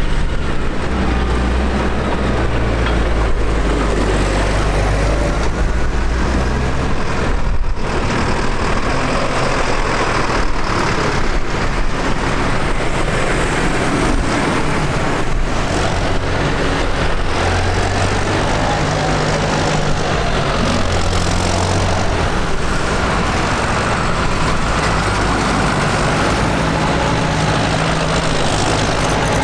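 Tractor engines running steadily, their low engine notes shifting every few seconds as different machines run or change speed.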